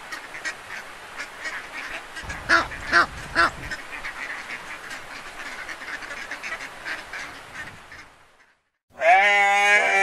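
Ducks quacking steadily, with three louder quacks about two and a half seconds in, fading out near the end. After a short gap, a long wavering call from a different animal begins.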